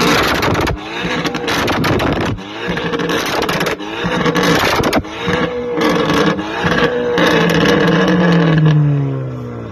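Car engines revving hard, the pitch climbing and dropping again and again, broken by several abrupt cuts.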